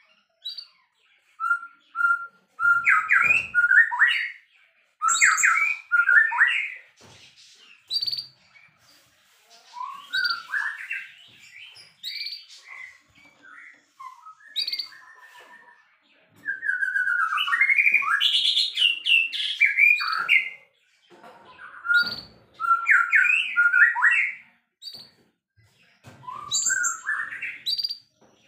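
White-rumped shama (murai batu) singing a loud, varied song: phrases of rich whistles, slurred notes and rapid chattering runs, each one to three seconds long, separated by short pauses.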